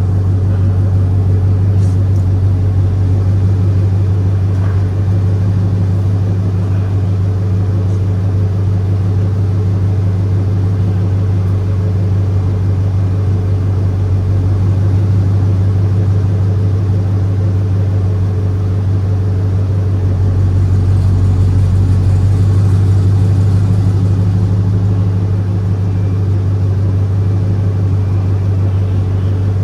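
5.3-litre V8 in a GMC Sierra pickup, running with headers, held at a steady engine speed: a loud, deep, constant exhaust drone that swells slightly about two-thirds of the way through.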